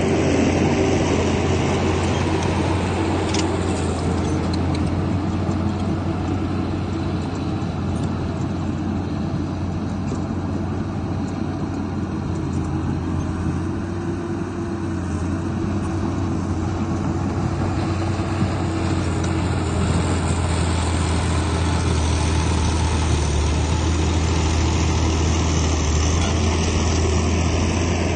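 Heavy diesel engine of earthmoving machinery running steadily, with a continuous low drone that dips a little around the middle and builds again toward the end.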